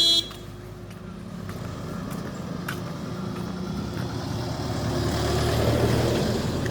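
Army truck engine running as the vehicle approaches along the road, its low rumble growing louder toward the end.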